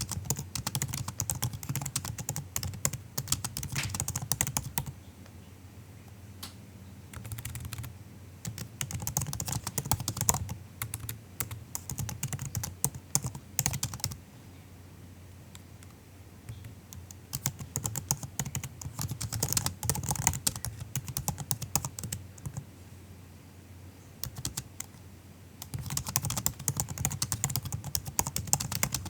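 Typing on a MacBook's soft laptop keyboard: fast runs of keystrokes in bursts of a few seconds, broken by pauses with only the odd single key press.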